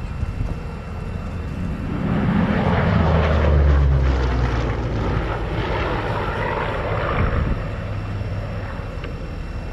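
Hawker Sea Hurricane's Rolls-Royce Merlin V12 engine making a display pass: the engine note swells to its loudest about three to four seconds in, drops in pitch as the aircraft goes by, then slowly fades.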